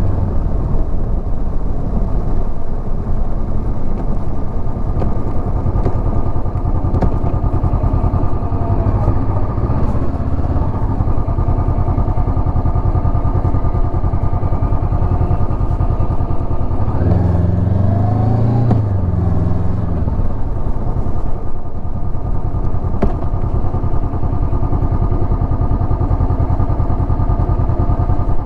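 Honda CB500X's parallel-twin engine running steadily while the motorcycle is ridden, with a brief rise and fall in revs about two-thirds of the way through.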